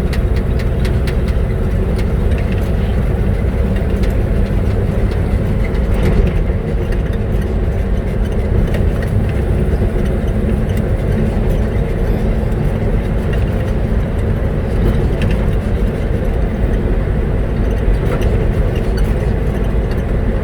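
1969 Chevrolet fire truck driving, heard from inside the cab: a steady low engine and road noise with frequent small rattles and clicks.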